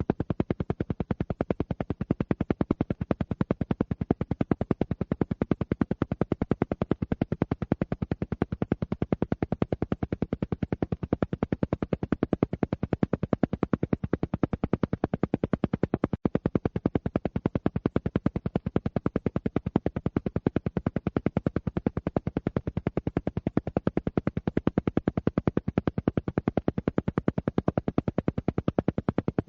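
Alpha-wave isochronic tone: a low hum switched on and off in rapid, evenly spaced pulses, with one momentary break about halfway through.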